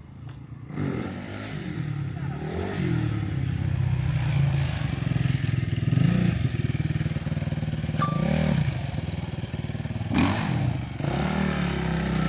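Dirt bike engine running and revving, its pitch rising and falling in several blips. A short high beep comes about eight seconds in.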